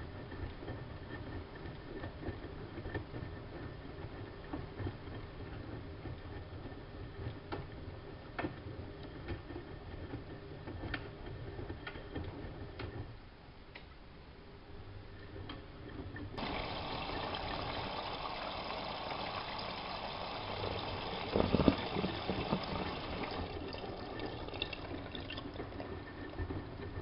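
Siemens Siwamat front-loading washing machine. For the first half there is a low running rumble with scattered clicks. About sixteen seconds in, water suddenly starts rushing in as the machine fills. The rush eases somewhat after several seconds, and a thump comes during the filling.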